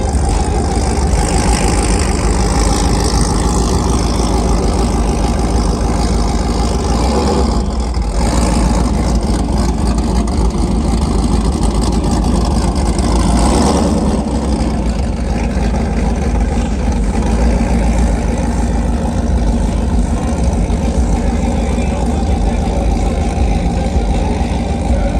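A vehicle driving, with steady engine and road noise.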